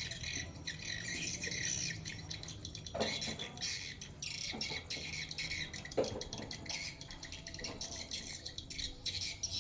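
Pet crow calling with harsh, speech-like squawks, the strongest about three and six seconds in; its owner takes the calls for the crow saying "Allah".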